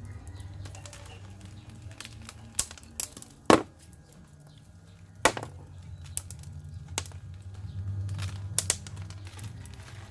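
Hands pulling a potted fern clump apart: rustling fronds and roots broken by scattered sharp snaps and knocks, the loudest about three and a half seconds in.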